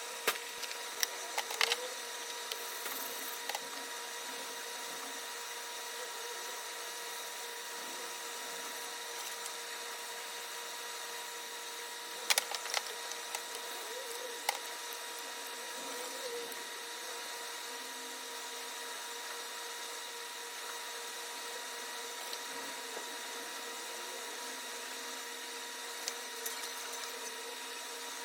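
Steady background hum with a few light clicks and taps, some near the start and a short cluster midway.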